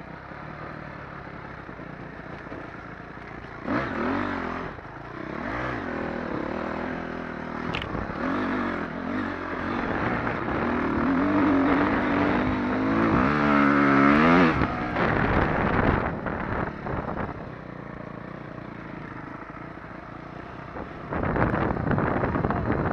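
Dirt bike engine running with repeated revs that rise and fall in pitch, the loudest climbing and dropping about 13 to 15 seconds in; it then settles to a quieter steady run before getting louder again near the end.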